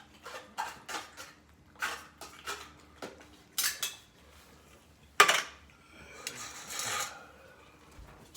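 A utensil clinking and scraping against dishes as cat food is dished out: a run of light clinks, one sharp loud clink about five seconds in, and a longer scrape near the end.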